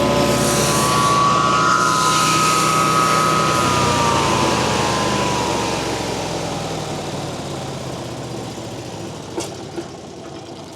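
MechMaxx B200 8-inch wood chipper with its 35 hp engine, running with a steady whine for a few seconds, then winding down: the whine falls in pitch from about four seconds in while the noise slowly fades. Two short clicks near the end.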